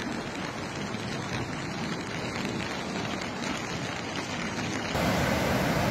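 Steady hiss of water, like rain or flowing floodwater, that jumps suddenly louder and fuller about five seconds in.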